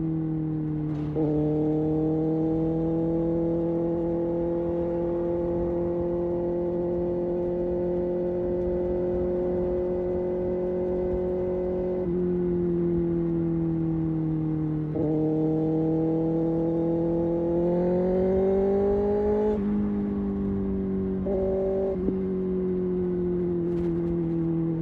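Kawasaki Ninja ZX-6R inline-four engine and exhaust running at steady cruising revs, with small throttle changes. The revs climb for about two seconds from around 18 s in, then fall back.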